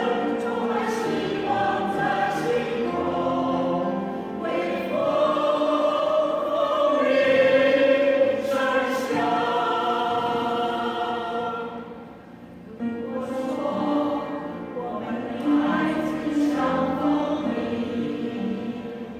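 A choir singing, many voices holding long notes together, with a short break about twelve seconds in before the singing resumes.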